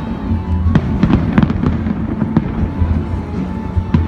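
Aerial fireworks bursting: sharp bangs and crackles at irregular intervals, several within a second of each other, over a continuous low rumble of the show.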